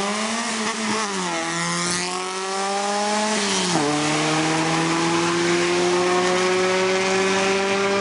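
Hillclimb competition car's engine pulling away under hard acceleration. Its note steps down at an upshift about a second in and again near the middle, then holds a steady, slowly climbing pitch.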